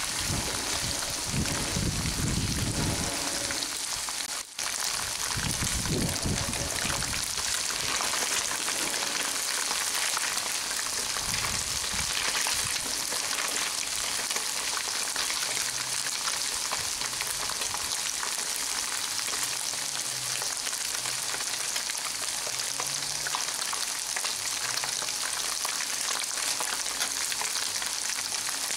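Flour-coated tadpoles deep-frying in hot oil in a frying pan: a steady, dense sizzle, with a slotted spatula stirring through them now and then.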